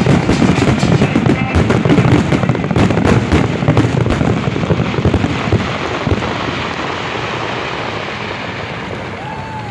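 Fireworks going off in a dense crackling barrage of rapid bangs, thinning out about six seconds in and trailing away into a fading steady hiss.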